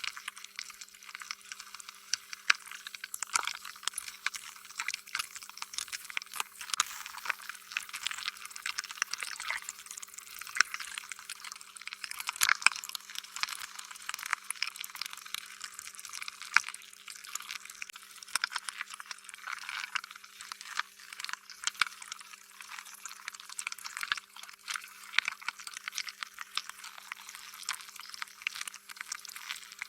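Slime being squished and stretched by hand, a continuous run of sticky, wet squelches and crackling pops with no steady rhythm.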